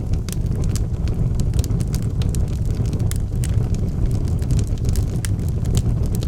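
Fire burning in a fireplace: a steady low rumble of flames with frequent irregular sharp crackles and pops from the burning wood.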